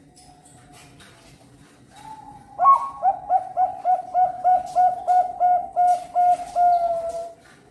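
Perkutut bangkok (zebra dove) singing: faint soft coos, then from about two and a half seconds in a rapid run of about fifteen evenly spaced coo notes, about three a second, ending on a longer held note.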